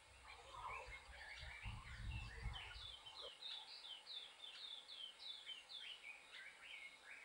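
Wild birds singing and calling, with a quick run of short, high, falling whistled notes. A low rumble runs underneath and cuts off about three seconds in.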